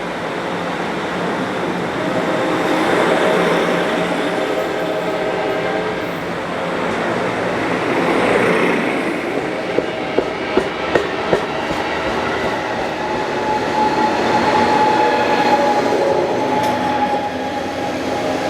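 Amtrak Pacific Surfliner passenger train pulling out, its locomotive and cars rolling steadily on the rails. A quick run of about five sharp wheel clacks comes about ten seconds in.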